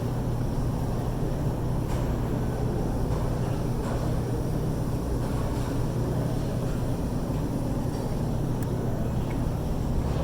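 Steady low rumble of background noise with a constant hum and a few faint clicks.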